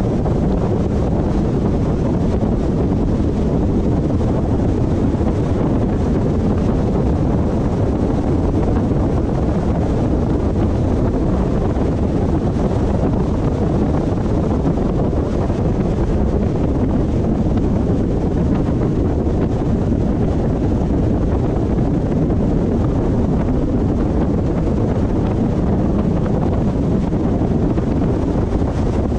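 Steady road and wind noise from a moving car, an even low rumble with no changes.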